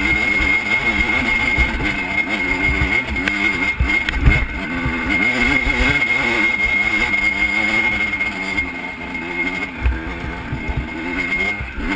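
Single-cylinder off-road engine running under a rider, its pitch rising and falling continually as the throttle is worked.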